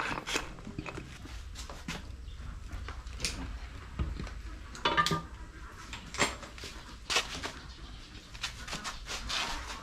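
Hand tools and metal engine parts clinking and knocking during an engine strip-down: about a dozen scattered short strikes over a low steady rumble. A short pitched sound comes about five seconds in.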